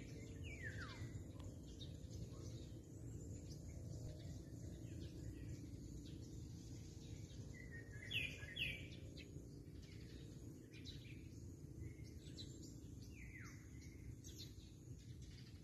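Birds calling over a steady low background noise: a falling whistle near the start and another near the end, and two short sharp chirps about halfway that are the loudest sounds.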